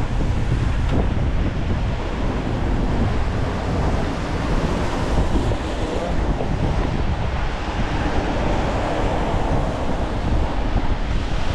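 Strong wind blowing on the microphone, a steady loud rush with a deep rumble, over the hiss of rain.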